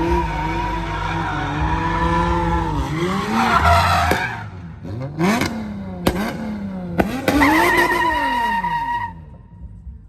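A car engine revving hard, its pitch rising and falling, with tyres screeching as in drifting or a burnout. It eases off about four seconds in, comes back in a second burst of revving and screeching, and dies away about nine seconds in.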